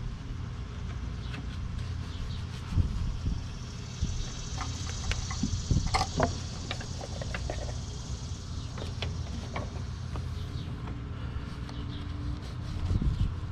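Cleaning work in a car's engine bay: scattered clicks and taps, with a stretch of hiss about halfway through, over a steady low rumble.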